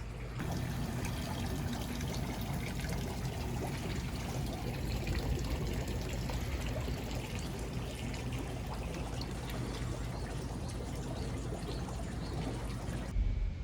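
Hot spring water pouring and trickling steadily into a bath, breaking off abruptly near the end.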